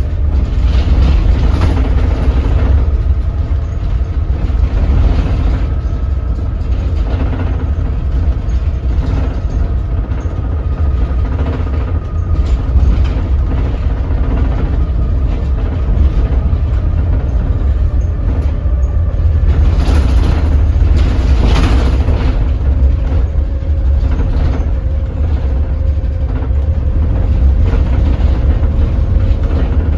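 Daewoo BS106 city bus's Doosan DL08K diesel engine running at low rpm while the bus is driven slowly and shifted at low revs, a heavy steady rumble. Two short hisses come about twenty seconds in.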